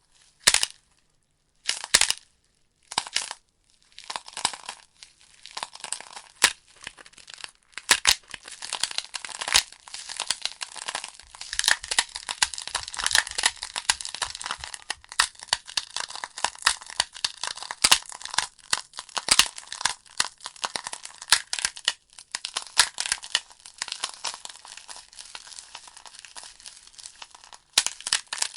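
Wood fire crackling in a fireplace: a dense run of irregular pops and snaps from burning logs. For the first few seconds there are only a few separate bursts with short silences between them, then the crackle fills in and runs thick.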